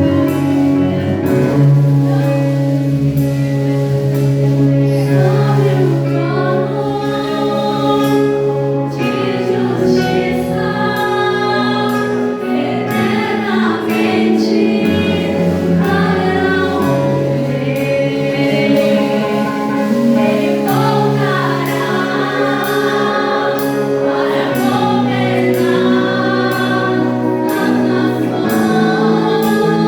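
Worship music with voices singing together in a choir over sustained held chords.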